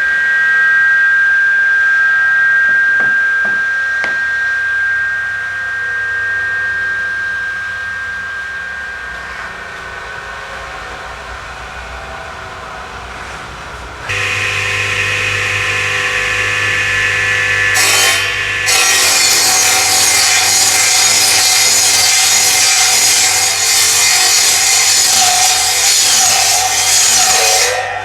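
Woodworking power tool cutting into wood. A steady whine fades away over the first half; about halfway a motor hum starts, and loud scraping cutting noise joins it a few seconds later.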